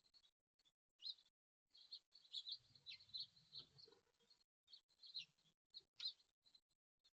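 Small birds chirping faintly: short, high chirps repeated irregularly, with a quick cluster of them a couple of seconds in.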